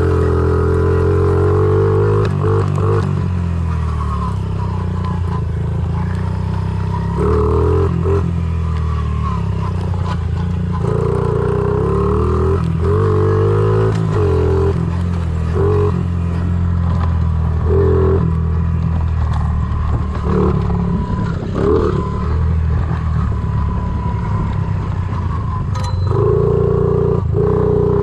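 Honda CRF50 pit bike's small single-cylinder four-stroke engine running under a rider, the throttle opening and closing again and again so its pitch rises and falls, with scattered knocks and rattles.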